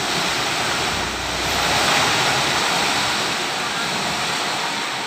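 Steady rushing noise, even and hiss-like across low and high pitches, swelling a second or two in and easing off toward the end.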